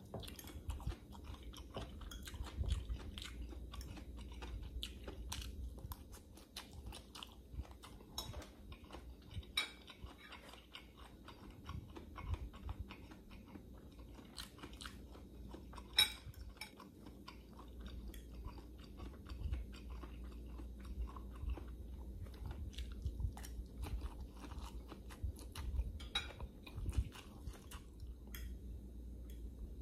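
Close-miked chewing and biting of forkfuls of stir-fried instant noodles, with wet mouth sounds and scattered sharp clicks, the sharpest about halfway through, from the fork against the glass bowl.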